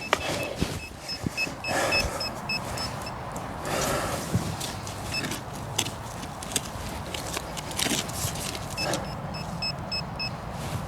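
Metal detector beeping in quick even pulses, about five a second, in three spells as it passes over a buried target in the dig hole. Between the beeps come scrapes and knocks of digging in hard, stony soil.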